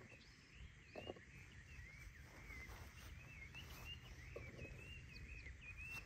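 Faint birdsong: a small bird singing a continuous string of short chirping phrases that rise and fall in pitch, over a low outdoor background rumble. A single soft knock sounds about a second in.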